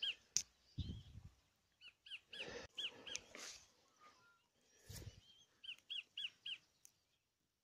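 A small bird singing outdoors: short arched chirps repeated in quick runs of three or four, with a few soft low thuds in between.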